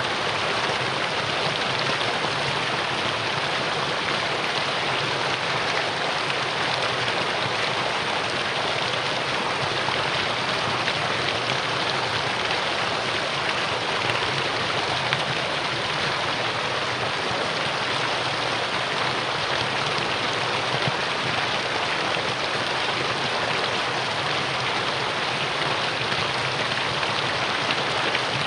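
Mountain stream rushing over rocks in a valley, a steady dense hiss and splash of flowing water.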